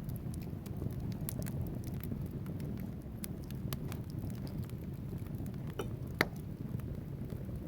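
Wood fire burning in a fireplace: a steady low rumble of flames with scattered sharp crackles and pops from the logs, one louder pop about six seconds in.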